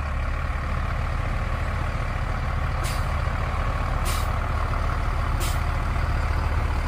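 Tractor engine running steadily at a low drone, with three short sharp clicks or rattles about a second and a half apart.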